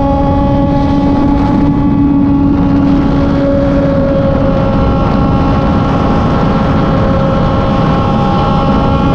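Kove 450rr's single-cylinder engine running at a steady cruising speed, its pitch held nearly constant, over a steady low rushing noise.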